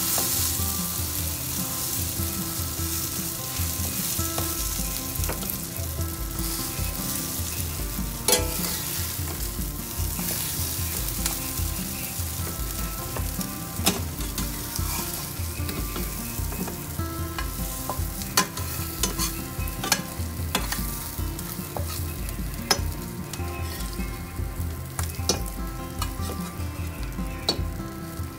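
Bread frying in hot oil with spiced chicken in a frying pan, sizzling steadily. Every few seconds a metal spatula clicks sharply against the pan.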